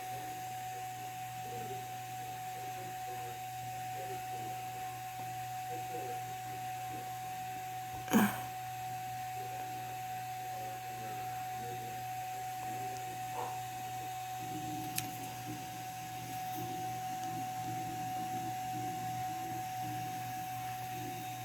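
Steady electrical hum of a household appliance, with one brief soft knock about eight seconds in.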